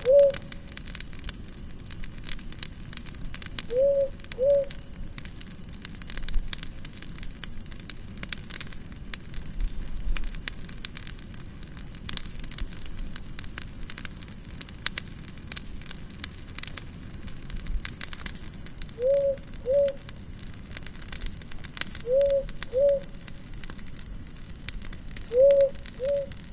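Campfire crackling and popping throughout, with a low two-note hooting call heard five times, its notes about half a second apart. Midway there is a short run of quick, high chirps.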